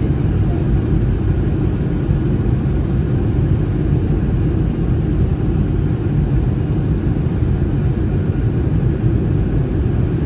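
Steady low roar of an Airbus A319 cabin in flight, its CFM56 jet engines and the rush of air along the fuselage blending into one even rumble with no changes.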